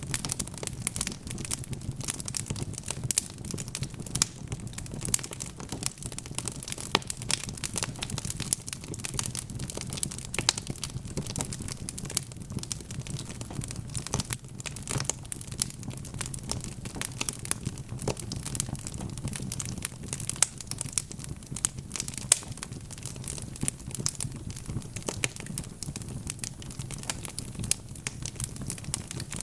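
Burning logs crackling in a fireplace: a dense, irregular stream of small pops and snaps over a low, steady rumble.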